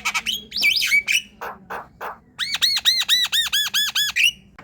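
Javan myna singing: gliding whistles and harsh chattering notes, then a fast run of about ten identical rising-and-falling whistles, about five a second.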